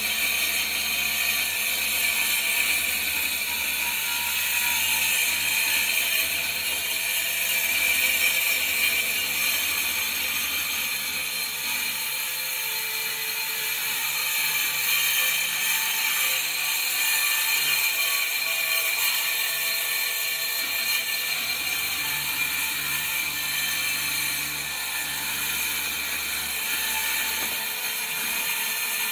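Cordless DeWalt power saw running steadily as it cuts through the floor, a continuous high-pitched motor whine with no pauses.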